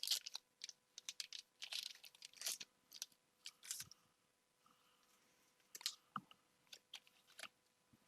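Pokémon trading cards being handled and flipped through: short, crisp clicks and scratchy slides of card against card, a quick run of them for the first few seconds, then a few scattered clicks.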